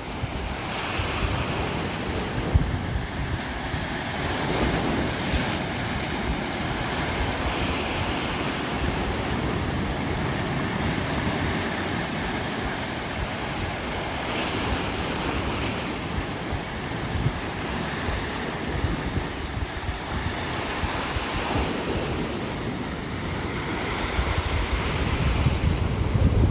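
Steady rushing noise with wind buffeting the microphone, the low rumble growing near the end.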